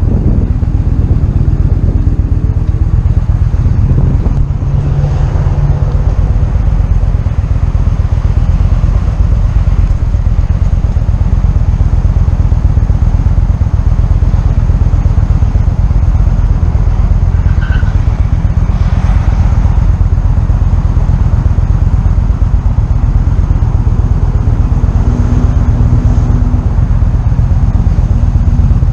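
Motorcycle engine running steadily while riding, under a loud, constant low wind rumble on the microphone.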